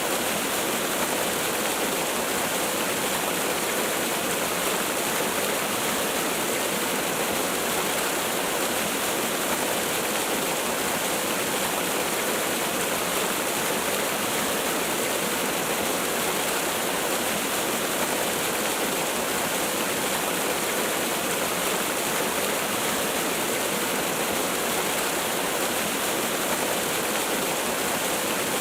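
Waterfall: falling water making a steady, unbroken rush with little deep rumble.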